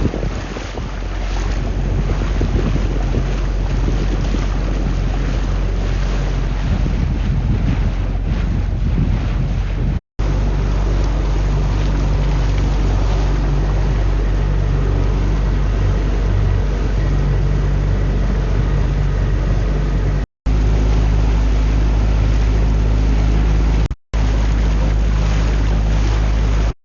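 A boat's engine running steadily while under way, under heavy wind buffeting on the microphone and rushing water. The sound drops out briefly three times, about 10, 20 and 24 seconds in.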